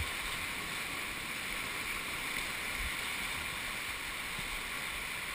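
Steady rush of river water during a white-water raft run, with a short low thump at the very start.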